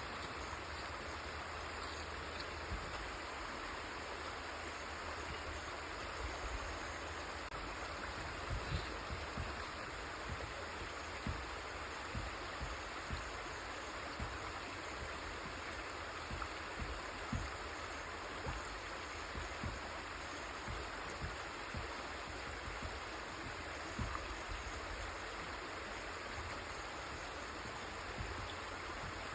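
River water flowing steadily, a continuous rushing hiss, with scattered soft low thumps throughout.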